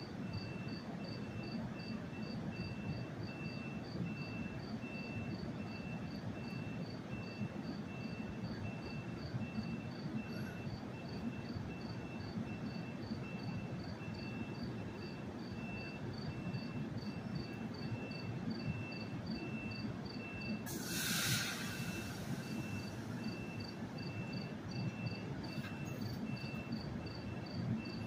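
Standing NJ Transit commuter train giving a steady low rumble, with crickets chirping about three times a second throughout. About three-quarters of the way through comes a sharp burst of air hiss lasting about a second.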